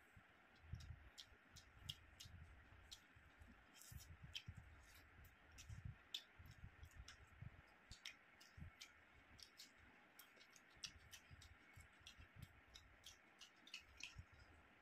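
Faint, close-up eating sounds: a person chewing a mouthful of rice and curry, with many small wet clicks and lip smacks at an irregular pace.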